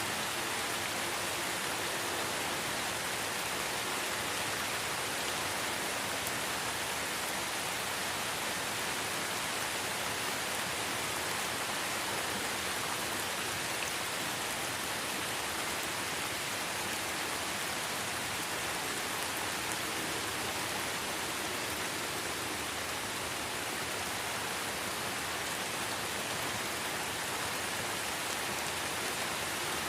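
Light rain falling in a forest: a steady, even hiss of drops on leaves and ground.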